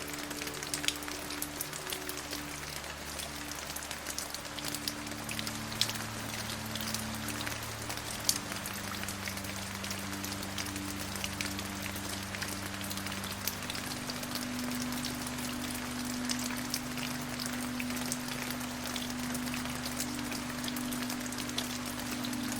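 Steady rain, an even hiss dotted with the ticks of individual drops, over a soft backing of held low notes that change slowly every few seconds.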